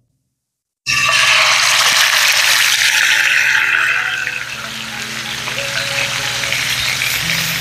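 Food sizzling loudly in hot oil, starting suddenly about a second in and settling a little after a few seconds, with background music underneath.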